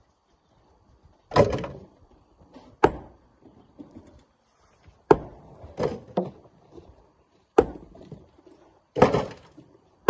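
Rocks being broken and loaded by hand: seven heavy knocks and thuds at uneven intervals, two of them followed by a short rattle.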